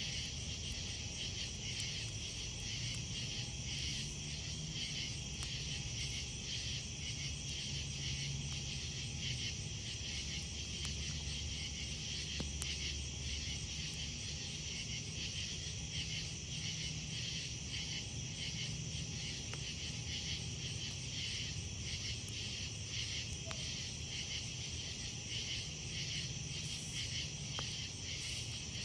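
A steady chorus of night insects chirping in rapid, even pulses, with a few faint crackles from a campfire.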